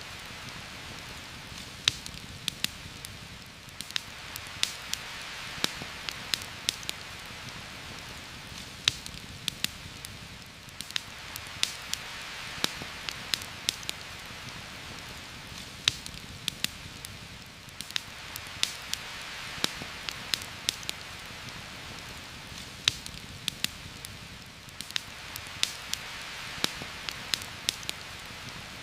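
Steady heavy rain falling on forest foliage, slowly swelling and easing, with frequent sharp, irregular crackles and pops from a campfire.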